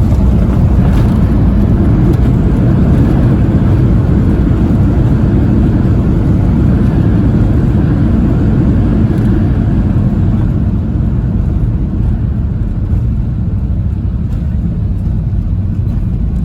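Loud, steady low rumble inside a jet airliner's cabin during landing, from engines and airflow, easing somewhat about ten seconds in.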